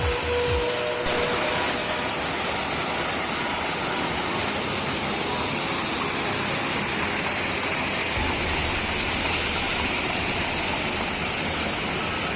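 Steady rushing of water falling over a small mountain waterfall, a little louder from about a second in.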